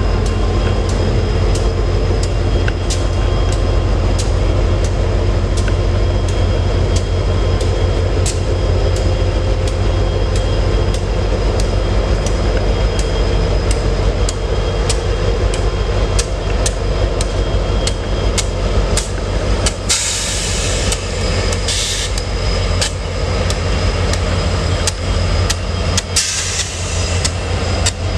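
Freight train rolling past, its wheels clicking over rail joints about twice a second over a steady low rumble. A few short bursts of hiss come in the last third.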